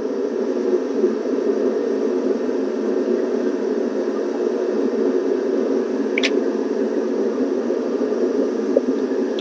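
Steady, even rushing noise, with one short light click about six seconds in.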